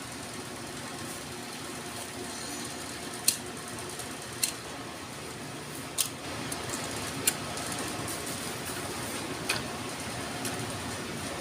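A handful of short, sharp clicks and taps, about five spread irregularly, over a steady low hum, typical of hand tools and small metal parts being handled during repair work.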